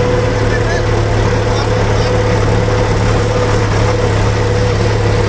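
Scania P 360 truck's diesel engine running steadily at an unchanging speed: a loud low hum with a steady whine above it.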